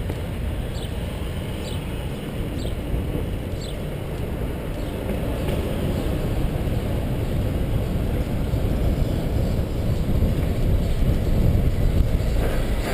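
Wind buffeting the microphone and rolling noise of a bicycle riding along a paved trail, a steady low rumble. A few short high chirps come in the first four seconds.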